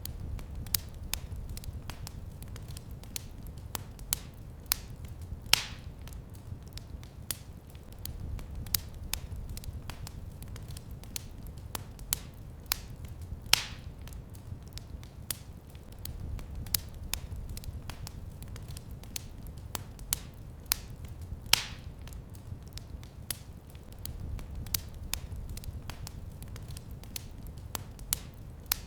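Wood fire crackling in a fireplace: a steady patter of small crackles over a low rumble that swells and fades, with three louder sharp pops about eight seconds apart.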